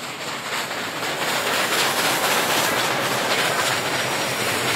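Train running past on the rails: a steady rumble and wheel noise, growing louder over the first two seconds.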